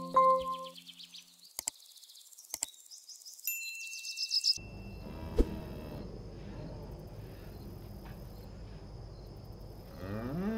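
A short chime of bell-like notes, two sharp clicks and a burst of high, falling bird chirps. Then open pasture ambience with a steady high insect buzz, and a cow's low, rising moo begins near the end.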